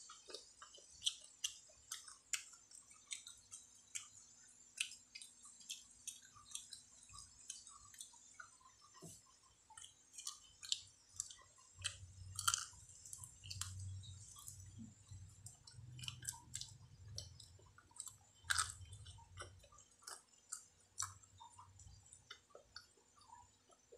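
A boy chewing fried street food close to the microphone, with many small wet mouth clicks and smacks, roughly one or two a second. A low rumble joins in through the middle stretch.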